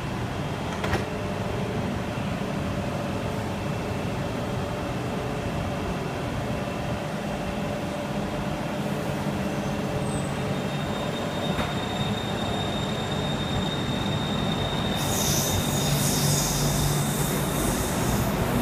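Bangkok metro train running on its rails: a steady rumble with a high steady tone joining about ten seconds in, and a louder high hiss near the end as it picks up or brakes.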